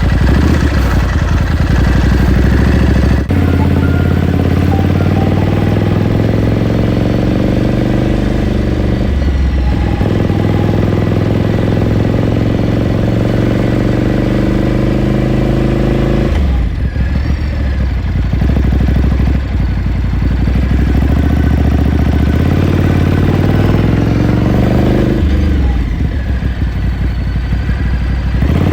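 2018 Ducati Scrambler Sixty2's 399 cc air-cooled L-twin running on the move. The exhaust note climbs in pitch as the bike accelerates, with brief breaks at the gear changes, and drops twice as the throttle is eased, once about two-thirds through and again near the end.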